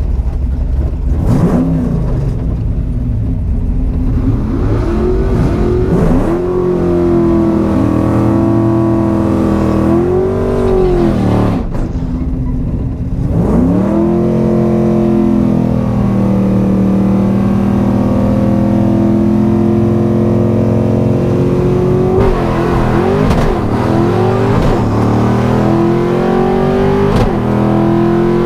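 Ford 5.0 V8 of a 1991 Mustang LX running: revs rise and drop back several times, then hold steady for several seconds and creep slightly higher near the end.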